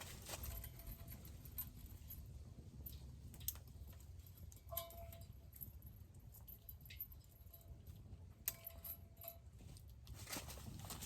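Faint, scattered metallic clinks and clicks, a few of them ringing briefly, over a low background rumble.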